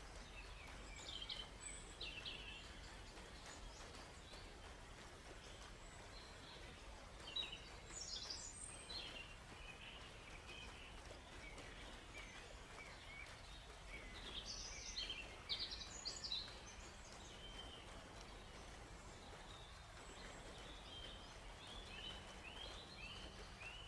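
Songbirds chirping and trilling in scattered bursts, with a run of short, quick chirps near the end, over a faint steady background hiss.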